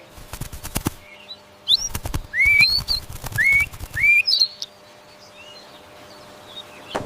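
An animal calling in a series of short rising whistles, about four in quick succession, after a few clicks. The calls die away for the last couple of seconds.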